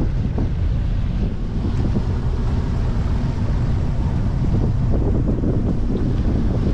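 Strong wind buffeting the microphone of a boat running at speed, over a low, steady rush of water and motor noise.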